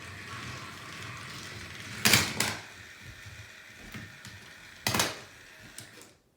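Motorized toy trains running head to head, their small motors whirring steadily, with two loud clattering knocks about two and five seconds in.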